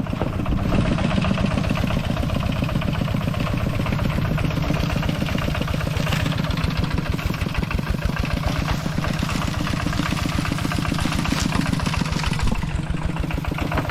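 A small engine running steadily at an even pace, its fast firing pulses unbroken.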